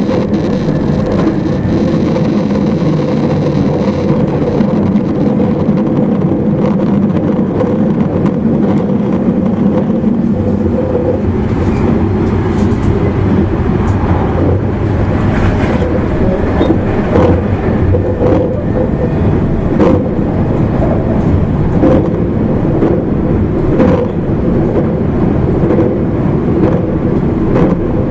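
Interior running noise of an E259 series Narita Express motor car at speed: a steady rumble of wheels on rail with a traction-motor hum. Scattered short clicks and knocks from the track come mostly in the second half.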